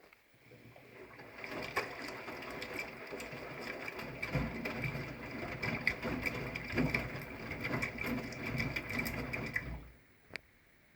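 V-Zug Unimatic SL washing machine drum turning in its wash cycle, with the motor running and the wet laundry and water sloshing and splashing. It stops abruptly near the end for the pause between tumbles, and a single click follows.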